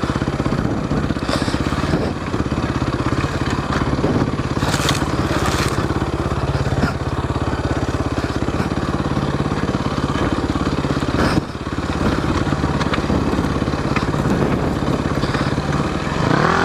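A 2000 Yamaha WR400F dirt bike's single-cylinder four-stroke engine running steadily, then revving up near the end.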